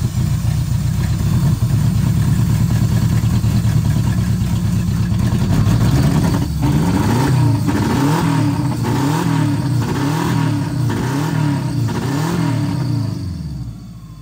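Subaru EJ22 flat-four engine, just started, running steadily and then blipped through a quick series of revs about once a second, the throttle worked by hand in the engine bay. The sound falls away sharply near the end.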